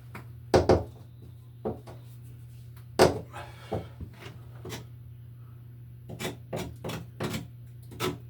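Irregular knocks, clicks and scrapes of a screwdriver working at rusted screws on a corroded metal electrical box, the loudest about half a second in and about three seconds in, with a run of smaller clicks near the end. A steady low hum runs underneath.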